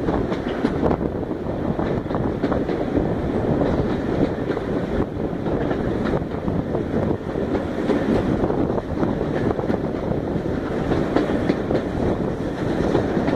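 Railway carriage running at speed, heard from an open window: a steady rumble of wheels on the rails with scattered light clicks, and wind on the microphone.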